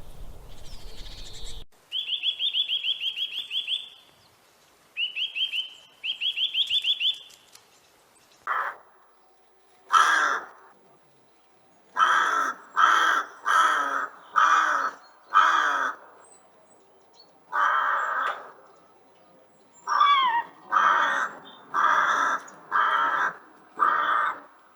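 A crow cawing repeatedly: harsh calls in runs of several, roughly one to two a second, through the second half. Earlier comes a different bird's rapid high trill in a few short bursts.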